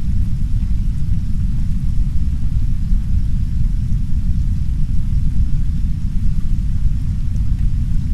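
Heavy synthetic brown noise, a steady deep rumble with no breaks, with soft rain against a window faint beneath it.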